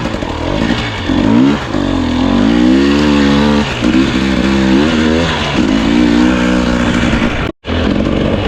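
Husqvarna TE250i single-cylinder two-stroke dirt bike engine revving up and down over and over as the throttle is worked at low speed. The sound cuts out for an instant near the end.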